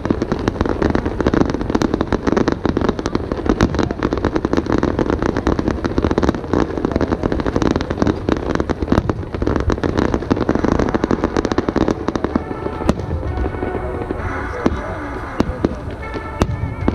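Aerial fireworks shells bursting in a dense, rapid barrage of bangs and crackle. After about twelve seconds the barrage thins to separate bursts.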